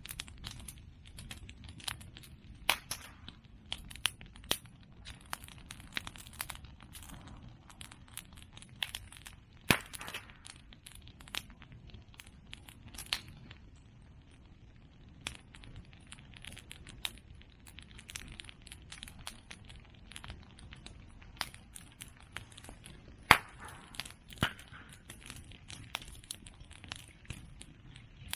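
Bonfire of cut bamboo and chestnut prunings crackling steadily over a low rumble of flame, with irregular sharp pops and snaps. Two louder pops stand out, one about ten seconds in and one near twenty-three seconds.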